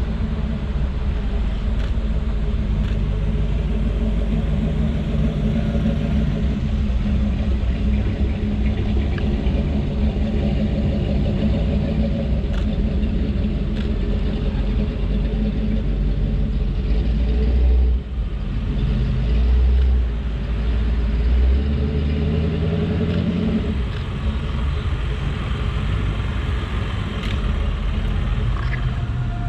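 Car engines running at low speed as cars move slowly past: a steady low rumble that swells briefly a little past halfway.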